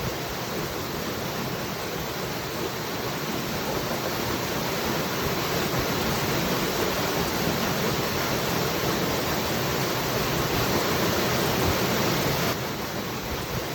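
Waterfall rushing in a steady, even roar of falling water. It drops a little in level suddenly near the end.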